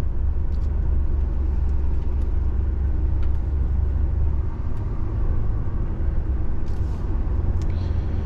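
DAF truck driving, heard from inside the cab: its diesel engine and the road noise make a steady low rumble.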